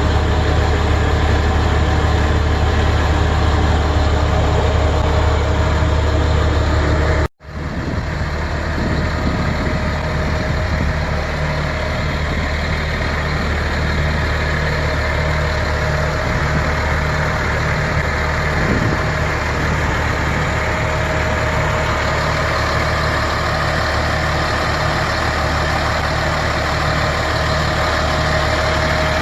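1999 C7500 medium-duty utility truck's engine idling steadily. The sound cuts out for a split second about seven seconds in, then the idle carries on unchanged.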